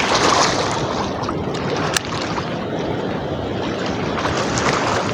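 Steady rush of floodwater at a river spillway, with wind buffeting the microphone. A single sharp click about two seconds in.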